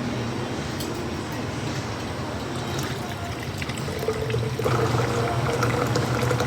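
Liquid being poured while a drink is made, over a steady low hum. About four and a half seconds in, a steady higher-pitched hum joins in.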